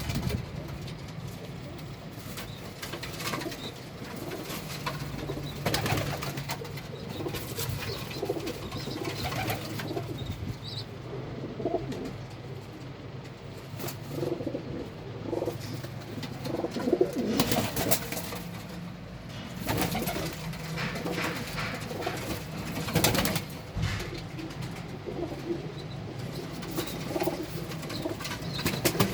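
Domestic pigeons cooing steadily, with scattered sharp clicks and rustles from the birds moving about.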